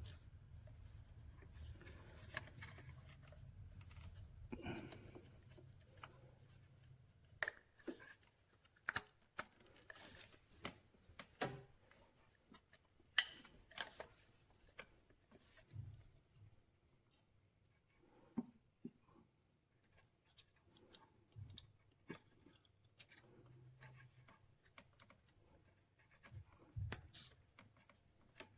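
Faint handling sounds and scattered sharp clicks, the loudest about 13 seconds in: plastic electrical connectors being pushed and clipped back onto engine components by hand.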